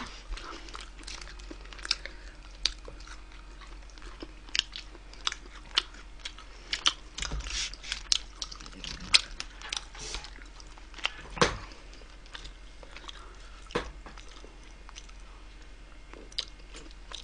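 Close-miked chewing and biting of wood-fired roast chicken, with irregular crunches and clicks scattered throughout.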